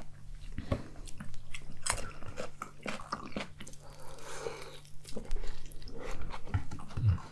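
Chewing and biting with crisp crunches: fried chicken drumsticks and fresh cucumber being eaten.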